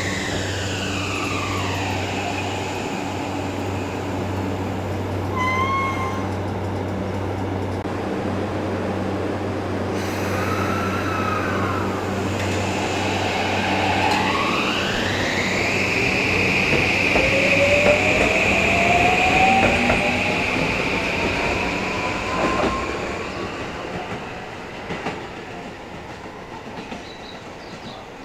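Electric commuter train's inverter motor drive whining: the pitch slides down in the first couple of seconds as it slows, then from about halfway it rises and settles into a steady high whine as a train accelerates away, with wheel clatter, and the sound fades near the end.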